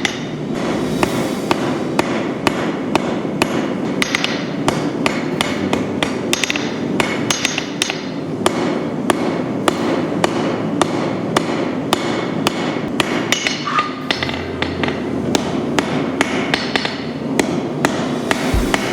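Blacksmith's hand hammer striking a 3/8-inch steel bar on an anvil, in a steady rhythm of about two to three blows a second, over a continuous rushing background noise.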